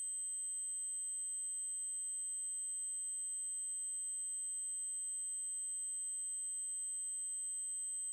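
A steady, unchanging 8192 Hz triangle-wave tone: a very high, continuous electronic whine.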